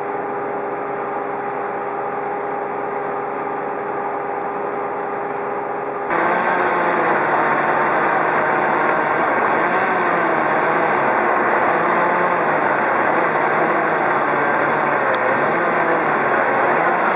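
Engine of heavy tree-removal equipment running steadily. About six seconds in it turns abruptly louder, with its pitch rising and falling every second or two as the load changes.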